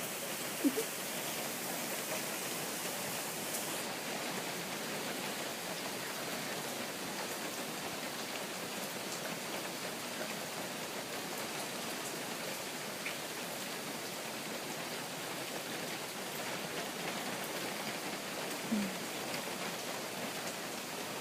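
Steady heavy rain from a typhoon falling in a continuous hiss. Two short falling squeaks come about a second in and near the end.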